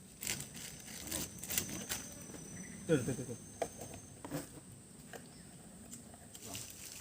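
Insects, crickets or cicadas, keeping up a steady high drone in the forest. Scattered knocks and rustles from handling the shelter materials come through it, most of them in the first five seconds.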